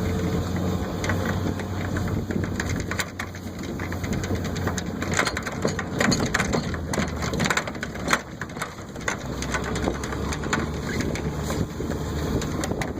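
Plastic sled cut from half an IBC tote being towed over snow behind a pickup truck: a dense, irregular scraping and crunching full of small knocks and bumps, over the truck's steady low engine hum.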